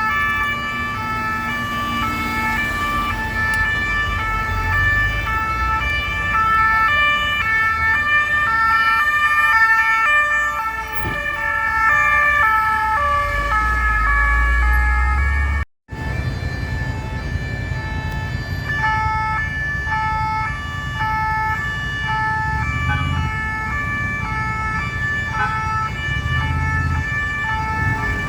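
Several two-tone sirens of French police and gendarmerie cars, each alternating between two notes and overlapping one another, over traffic rumble. The sound drops out for a moment just past halfway and picks up again.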